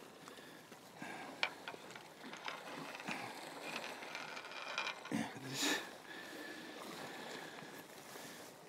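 Fishing tackle being handled: scattered clicks and mechanical ratcheting, with a short louder rush about five seconds in.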